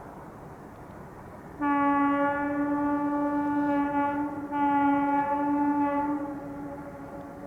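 Train locomotive horn sounding two blasts, a longer one then a shorter one, a single steady note, over the rumble of the train.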